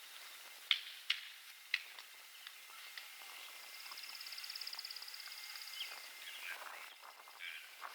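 Outdoor field ambience with three sharp knocks in the first two seconds, then a bird's rapid, high trill for about two seconds in the middle.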